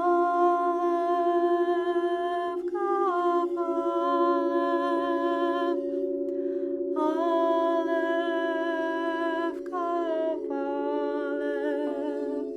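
Wordless sung toning held in long notes over the steady ring of a singing bowl. The voice holds each note for a few seconds, steps to a new pitch and pauses briefly between phrases, while the bowl sounds on unbroken underneath.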